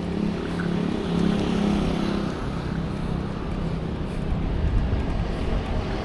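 Road traffic: a motor vehicle's engine hum for the first two seconds or so, then fading into a steady roar of traffic noise with a low rumble building near the end.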